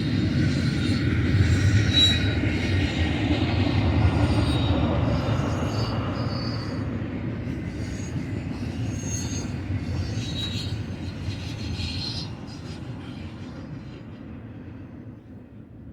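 Double-stack intermodal freight cars rolling past on the rails, with a steady low rumble and scattered short, high wheel squeals, fading away over the last few seconds as the train goes by.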